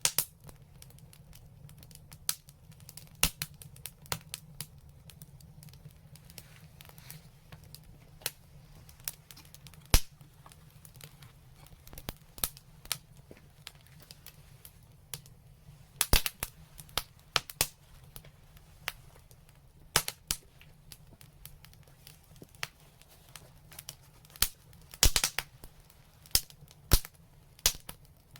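Wood fire crackling with irregular sharp pops and snaps, the loudest clusters about ten, sixteen and twenty-five seconds in, over a faint steady low rumble.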